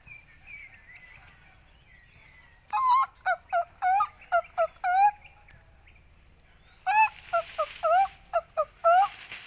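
Two bouts of quick, fowl-like calls, each a run of five or six short notes with a hooked, rising-and-falling pitch, about four seconds apart.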